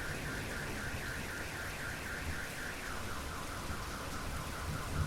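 Steady rain with a car alarm warbling through it, about five chirps a second. About three seconds in, the alarm switches to a lower-pitched chirp.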